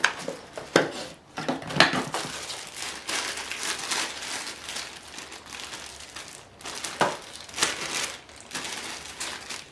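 Packaging crinkling and rustling as it is handled while unpacking a camera box, with a few sharper knocks along the way.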